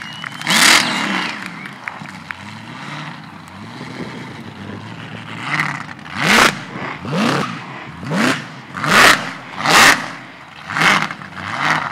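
Supercharged engine of a VL Commodore revving hard in a burnout, the rear tyres spinning: one big rev near the start, then a quick string of about eight revs, roughly one a second, through the second half.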